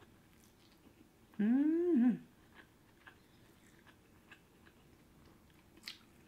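A person chewing food with soft, faint mouth clicks. About a second and a half in comes a short, louder hummed vocal sound that rises and falls in pitch. There is one sharper click near the end.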